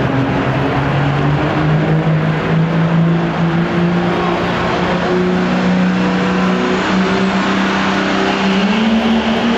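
Diesel pulling truck's engine running hard at high revs, its pitch climbing slowly and stepping up near the end, as it pulls down the track.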